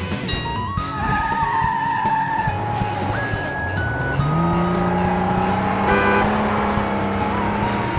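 Background music mixed with a racing-car engine sound effect. The engine tone rises in pitch about four seconds in, then holds steady.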